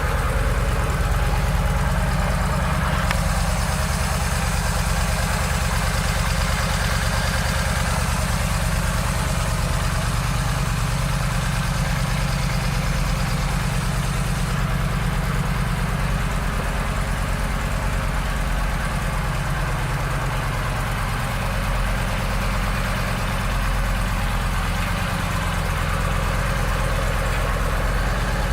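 Yamaha V-Star 950's air-cooled V-twin engine idling steadily.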